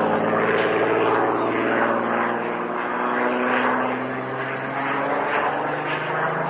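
Propeller-driven aircraft in flight, its engine a steady drone whose pitch shifts slowly.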